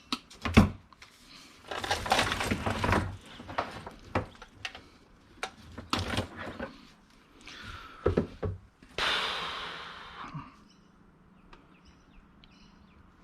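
Scrap electrical cords being rummaged through and sorted by hand: scattered knocks and clatters of plugs and cable against a container, with two longer rustling, scraping stretches, the second about nine seconds in, then quieter.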